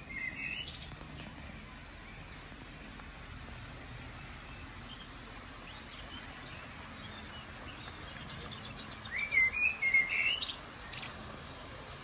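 Small songbirds chirping: a short call at the start, scattered faint calls, a quick run of ticks, then a louder warbling phrase of rising and falling notes about nine seconds in, over a faint steady hiss.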